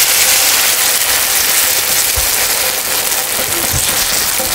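Battered food frying in hot oil in a pan, a steady sizzle.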